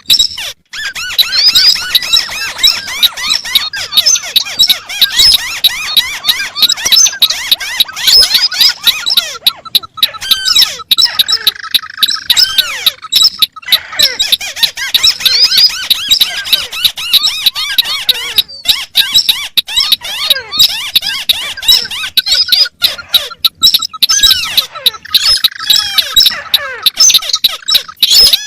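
Calls of several crakes overlapping, the white-browed crake among them: a dense, fast chatter of squeaky notes, with a lower note that now and then slides slowly downward.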